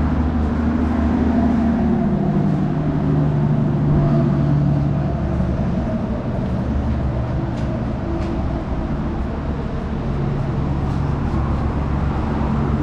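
A motor vehicle's engine running steadily: a continuous low drone whose pitch shifts up and down a little.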